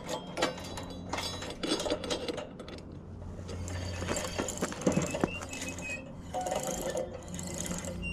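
Light metallic clinks and knocks of hand work on mini bike parts: a quick run of them over the first few seconds, then sparser ones over a low steady hum.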